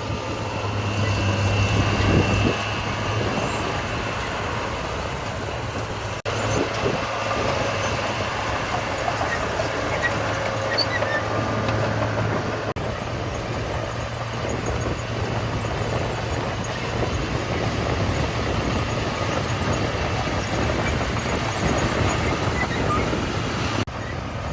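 Heavy diesel construction machinery running, with a steady low engine hum under a rough, continuous rumble. The sound breaks off abruptly a few times.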